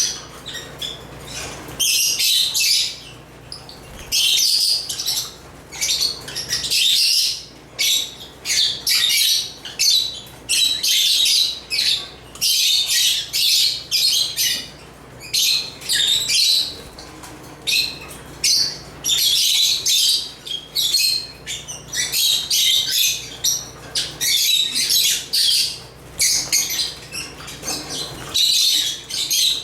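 African lovebirds chirping and squawking in rapid, shrill bouts of a second or two with short pauses between.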